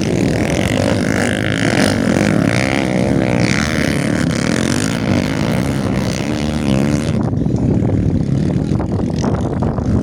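Several motocross motorcycle engines running hard, their pitch rising and falling as the riders rev and let off. About seven seconds in the sound changes abruptly and loses its high hiss.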